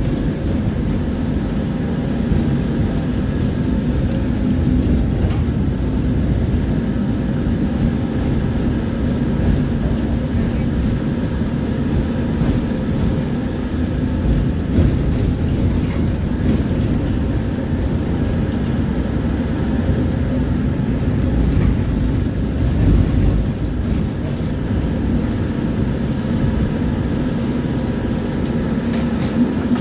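Tram in motion, heard from on board: a steady low rumble of wheels and running gear on the rails with a constant hum underneath.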